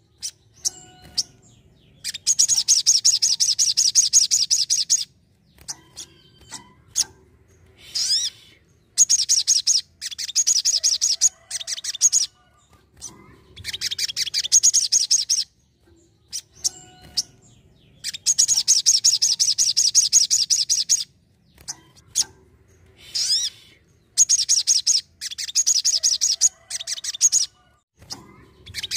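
Crimson sunbird (sogon) singing: bursts of rapid, high trilling notes a few seconds long, repeated about every five seconds, with single short chips in the pauses between.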